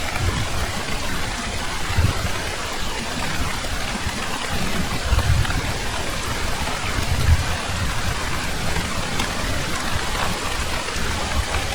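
Heavy rain falling steadily in a dense, even hiss, with low rumbles swelling up underneath several times.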